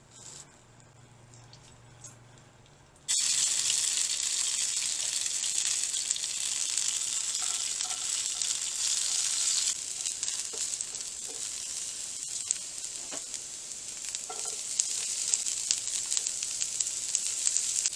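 Food frying in a hot pan. For about three seconds there is only a faint low hum, then a loud sizzle starts suddenly and carries on, easing slightly about ten seconds in, with small clicks through it.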